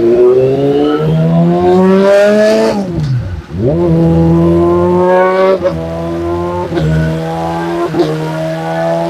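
2013 Yamaha R6 inline-four sport bike engine with a full Arrow exhaust, run hard on a chassis dyno. The pitch climbs for about three seconds, falls sharply and nearly cuts out, then comes back high and held fairly steady, broken by short cuts about once a second.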